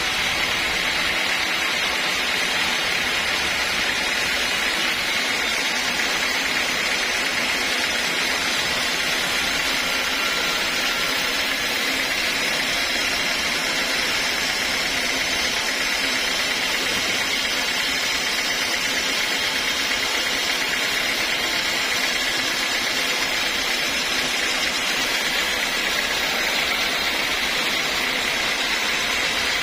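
Sawmill machinery running steadily, an even, unbroken mechanical noise with no change in level.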